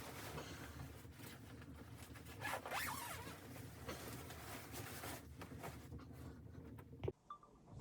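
A zipper being pulled in a series of rasping strokes, ending with a sharp click about seven seconds in.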